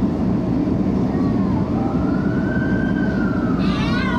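CTA 'L' rail car running on the elevated Loop tracks, a steady heavy rumble of wheels on rail. Over it, high squealing tones slowly rise and fall, with a brief cluster of higher, wavering squeals near the end.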